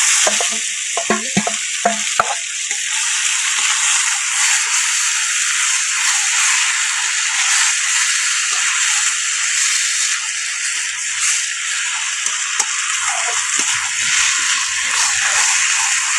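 Marinated chicken sizzling steadily in hot oil with fried onions in a kadai. Metal spatula scrapes and knocks against the pan as it is stirred, mostly in the first couple of seconds.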